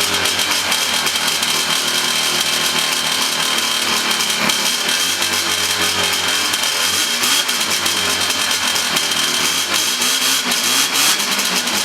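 Ski-doo Blizzard 5500 snowmobile's Rotax 503 two-stroke twin running after restoration. Its pitch rises and falls a few times in the second half as the engine is revved lightly.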